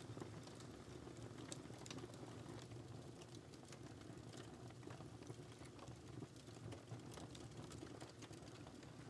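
Wood fire crackling faintly: irregular small pops and snaps over a low, steady hiss of burning.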